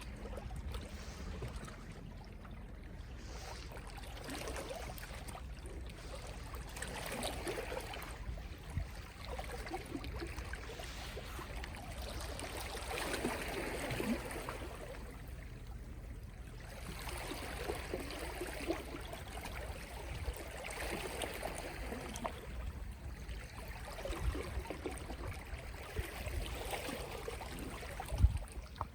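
Small, gentle sea waves lapping and washing at the shore, swelling and receding every few seconds with a trickling, gurgling sound.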